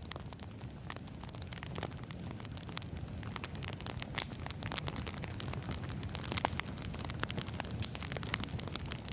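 Wood fire crackling, with frequent sharp pops and snaps over a low steady rumble of the flames.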